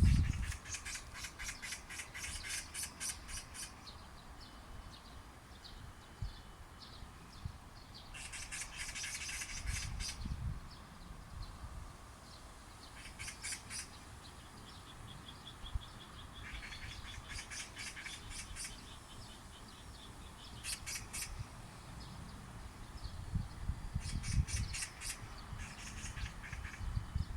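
Oriental magpies chattering: harsh, rapid rattling calls in repeated bursts of one to a few seconds. Low rumbles come and go beneath them, the loudest at the very start.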